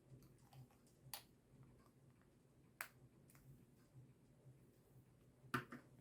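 A few faint, sharp clicks and taps of small makeup items being handled, the loudest about five and a half seconds in, over a faint steady low hum.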